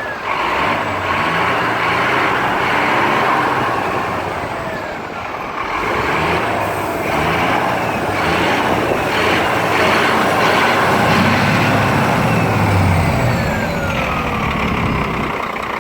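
2013 Scania G460 truck's diesel engine running, its note shifting up and down several times and loudest about three quarters of the way through.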